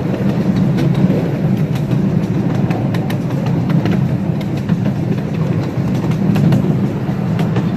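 Train running behind a live steam locomotive, heard from aboard: a steady low rumble of wheels on the rails with scattered sharp clicks and clacks from the track.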